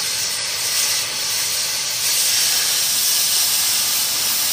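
Oxy-fuel cutting torch hissing steadily as its flame cuts a hole through a steel strap plate, throwing sparks. The hiss gets a little louder about two seconds in.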